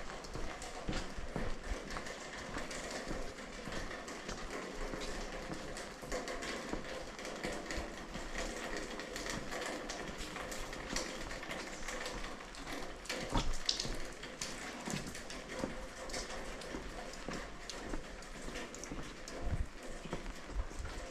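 Rain falling on wet stone paving, with a walker's footsteps and many small taps and drips throughout.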